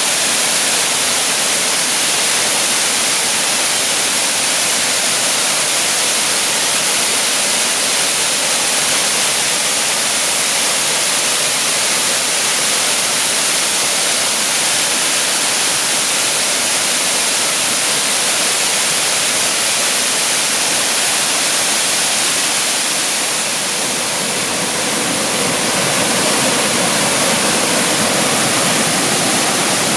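Waterfall pouring steadily: an even, unbroken rush of water with a bright hiss on top, dipping slightly and gaining a little more body about three-quarters of the way through.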